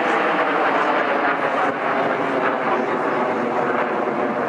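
Red Arrows BAE Hawk T1 jet trainers flying over in formation: steady jet engine noise from their Adour turbofans.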